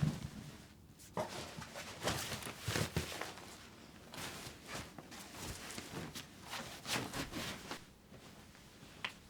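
A soft knock, then a run of irregular rustling and light knocks and clicks, the sound of things being handled and moved about by hand.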